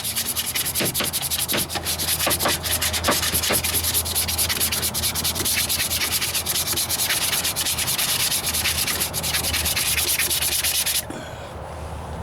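Sandpaper rubbed rapidly back and forth by hand over body filler and spot putty on a steel rocker panel, a dense run of scratchy strokes that stops about eleven seconds in.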